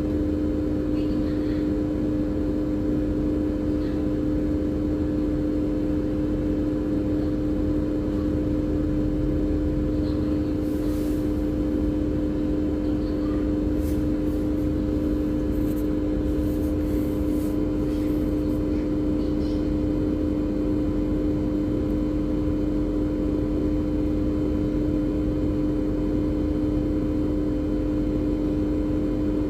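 Assist tug's diesel engines running at a constant speed: a steady drone with a fixed hum and low rumble. A few faint light ticks come in about midway.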